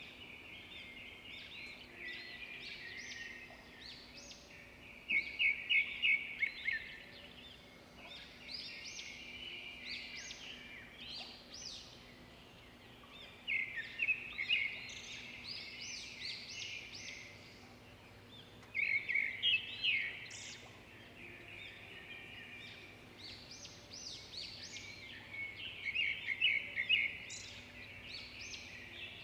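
Birds chirping and singing, with loud bursts of rapid repeated notes every several seconds over a faint steady hum.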